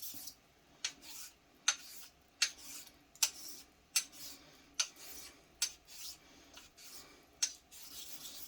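6/8 quarter-hollow straight razor being honed on a 1000-grit Naniwa water stone: a rhythmic rub of the blade across the stone with a sharp tick about every 0.8 s, each followed by a softer swish.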